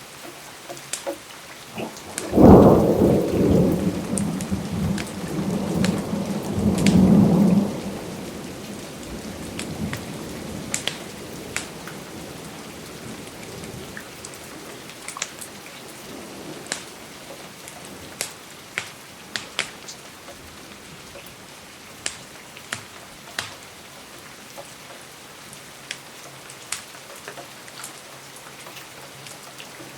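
Steady rain with a roll of thunder that breaks loudly about two and a half seconds in and rumbles on for about five seconds, over scattered sharp fireplace crackles.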